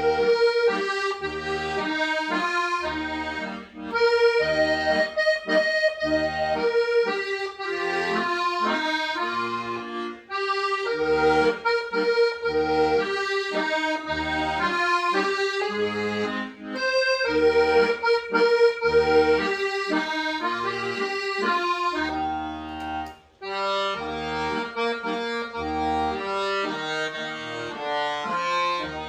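Accordion playing a hymn tune: a sustained melody with chords over a regular, evenly paced bass line, with a brief break about 23 seconds in.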